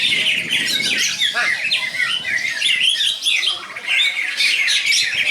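Cucak ijo (green leafbirds) singing together in a dense, continuous stream of quick chirps and rising and falling whistled notes.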